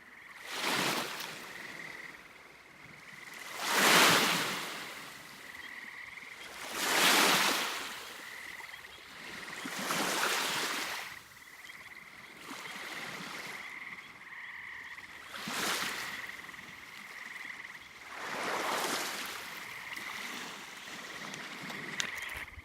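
A continuous, even high-pitched trill, with a loud whooshing swell lasting about a second every three seconds or so, the loudest two near the start.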